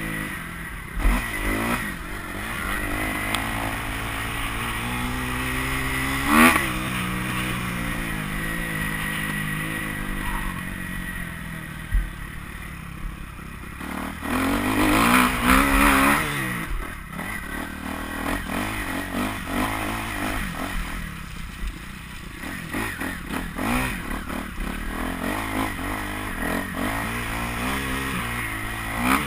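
Kawasaki KX250F motocross bike's four-stroke single-cylinder engine running and being revved hard. It swings up and down with the throttle, with sharp rises in pitch about six seconds in and again around fifteen seconds in.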